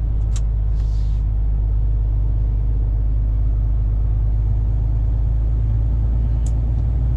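Steady low rumble of a lorry's diesel engine and road noise heard from inside the cab while driving, with two short faint clicks, one near the start and one near the end.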